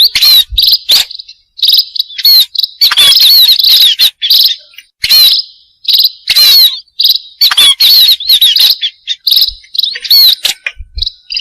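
Munias (burung pipit) chirping, recorded close: quick bursts of short, high-pitched chirps with brief pauses between them.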